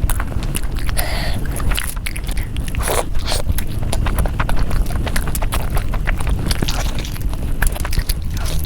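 Close-miked eating: a person biting and chewing food, heard as a dense run of quick wet clicks.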